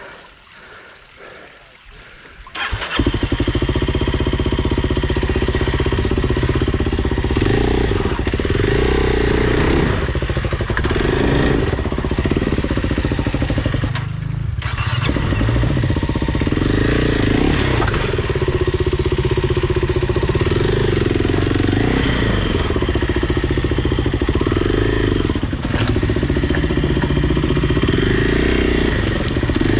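Dirt bike engine running hard under throttle from about three seconds in, after a quieter start. The engine note rises and falls as the throttle is worked, with a brief drop in level about halfway through.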